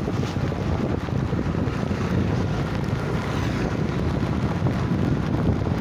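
Wind buffeting the phone's microphone: a steady, rumbling rush that flutters without a break.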